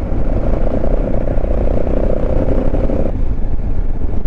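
BMW motorcycle under way, with wind rushing over the helmet microphone and a steady engine note that drops away suddenly about three seconds in.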